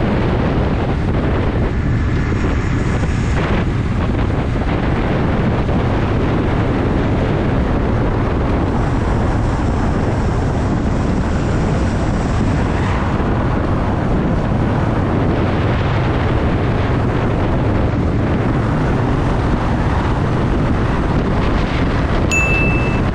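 Honda Shadow VT750's V-twin engine running steadily under way, with wind noise on the microphone. A short high beep sounds near the end.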